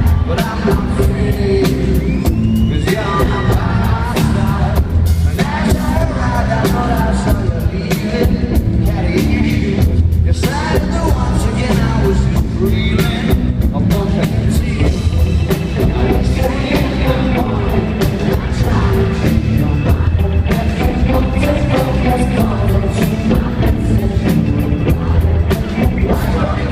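Rock band playing live, drums, bass and guitar with a sung vocal, heavy in the low end and distorted as heard through a phone's microphone in the crowd.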